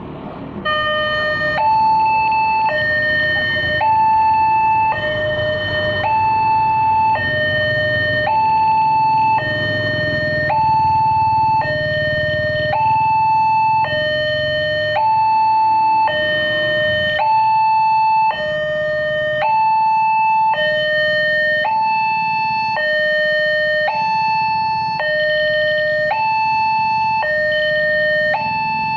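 Railway level-crossing warning alarm sounding its two-tone signal, a lower and a higher tone alternating about once a second without a break, warning that a train is approaching. A low rumble of vehicle engines runs underneath.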